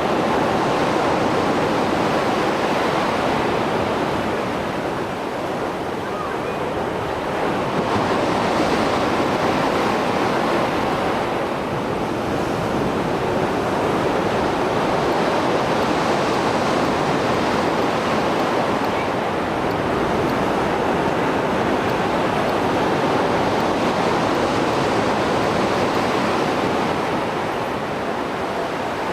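Mediterranean surf after a storm, waves breaking and washing ashore in a continuous rushing noise that swells and eases every several seconds.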